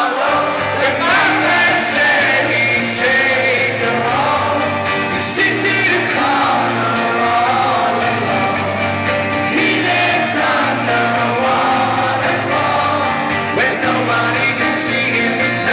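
Live rock band playing in an arena: full band with a pulsing bass line and a wavering lead melody over it.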